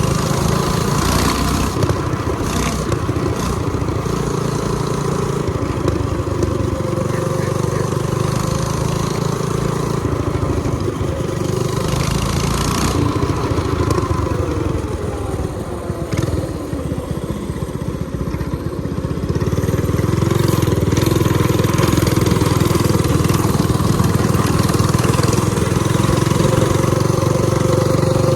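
Minibike's 196cc single-cylinder engine, governor deleted and breathing through a header pipe, running as the bike is ridden. The engine speed drops off past the middle and climbs back up about two-thirds of the way through.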